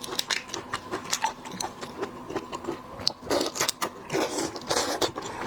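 Cooked shrimp shells cracking and being peeled, with rapid crackling clicks and a few longer crunches, close to the microphone.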